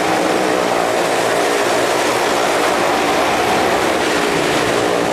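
Engines of stunt vehicles riding the wall of a well-of-death arena, running steadily and loudly.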